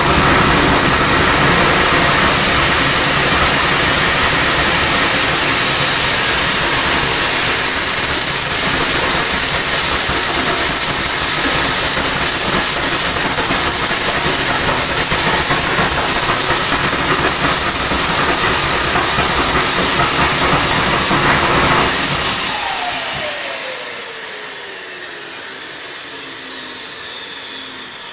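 Homemade KJ66-type model turbojet running with a steady high whine over a broad rush. About 22 seconds in, the combustion noise cuts out and the turbine whine falls steadily as the rotor spools down after shutdown.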